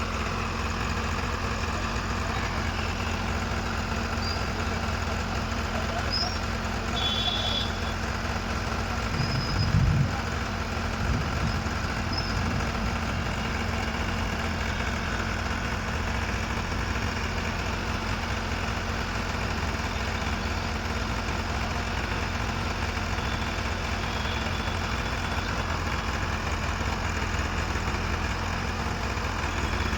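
A 45 hp New Holland tractor's diesel engine running steadily at idle, with a brief louder surge about ten seconds in.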